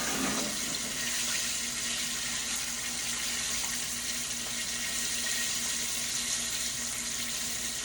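Chicken wings frying in hot oil: a steady, even sizzle with no breaks, over a faint steady low hum.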